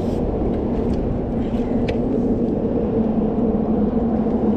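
A motor running steadily: a low rumble with a steady hum.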